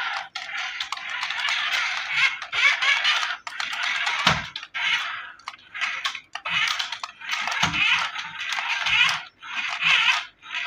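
Plastic packaging crinkling and rustling in irregular bursts as it is handled, with scattered clicks and a few soft knocks.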